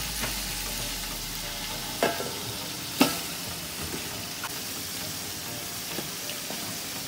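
Onion, ginger-garlic and chili paste frying in oil in an aluminium pot, a steady sizzle, as marinated chicken pieces are laid in by hand. Two sharp knocks, about two and three seconds in.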